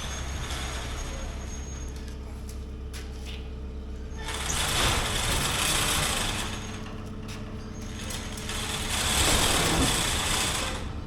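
Skid steer engine running steadily, with two louder surges of rushing, hissing noise, each about two seconds long, one about four seconds in and one about nine seconds in.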